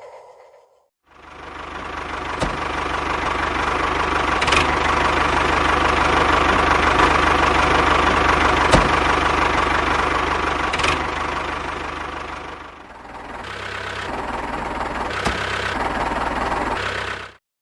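A small electric motor running steadily with a dense whirring buzz and a few sharp clicks. It starts about a second in, eases down and picks up again about two-thirds of the way through, then cuts off suddenly near the end.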